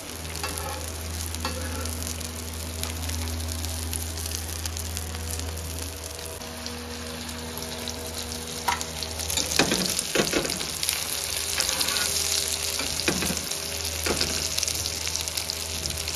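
Chicken shami kababs frying in shallow oil on a flat griddle: a steady sizzle, with a cluster of louder crackles and spits a little past halfway and a few more near the end.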